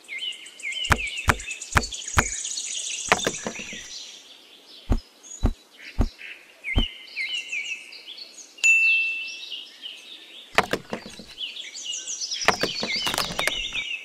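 Birds chirping and trilling in repeated high phrases, with a series of sharp knocks and clicks: several spaced out over the first seven seconds and a quick cluster near the end.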